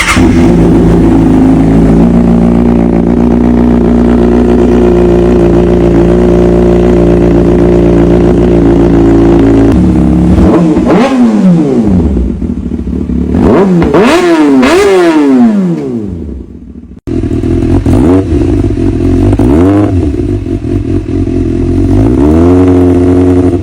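Kawasaki Ninja ZX-6R's inline-four engine running through an aftermarket exhaust. It holds a steady note for about ten seconds, then is revved several times, each rev climbing and dropping back. After an abrupt cut it settles to a steady run again with a couple of short blips near the end.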